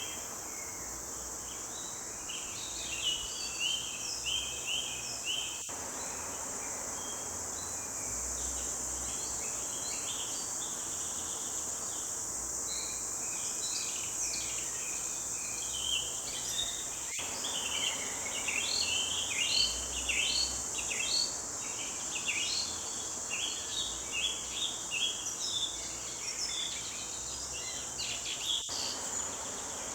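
A chorus of forest songbirds: many short chirps and trills in quick succession. Underneath runs a steady high-pitched insect drone.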